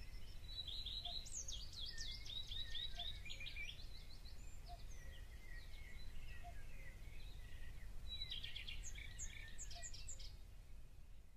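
Birds singing: quick runs of chirping notes, one stretch about a second in and another near the end, over a low steady outdoor rumble, fading out at the end.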